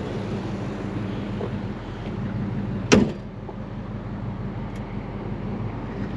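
1968 AMC AMX's 390 V8 idling steadily, with one sharp knock about three seconds in.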